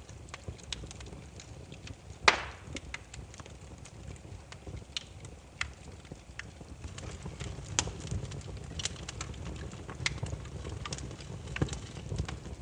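Burning firewood crackling, with sharp pops at irregular intervals over a low, steady rumble of the flames; one pop about two seconds in is much louder than the rest.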